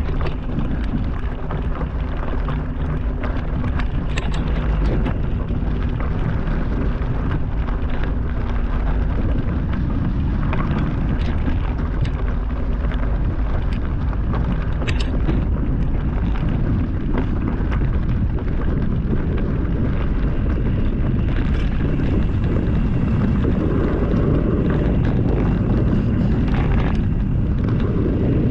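Steady wind rushing over the microphone of a mountain bike rider's camera while riding, with scattered knocks and rattles from the bike on rough trail.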